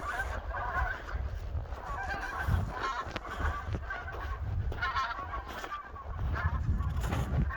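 A flock of wild geese honking, many calls overlapping continuously, over a steady low rumble.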